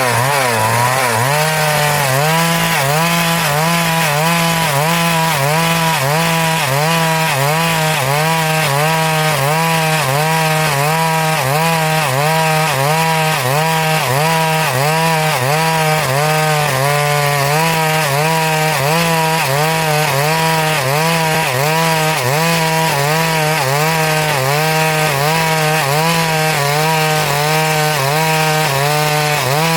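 Stihl MS382 two-stroke chainsaw at full throttle, ripping lengthwise through a hardwood log. The engine pitch dips and recovers in a steady rhythm about one and a half times a second as the chain bites into the wood.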